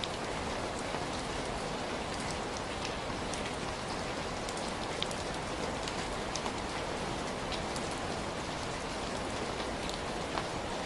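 Heavy rain falling steadily: a dense, even rush, with scattered sharp ticks of individual drops striking close by.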